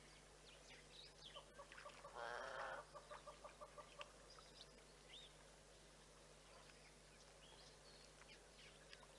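Faint bird calls: a short harsh, rasping call about two seconds in, followed by a quick run of short notes at about seven a second, with thin chirps from small birds scattered throughout.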